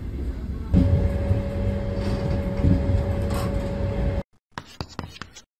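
Passenger train running, heard from inside the carriage: a steady low rumble with a sustained high tone over it. It cuts off abruptly about four seconds in, and a few faint clicks follow.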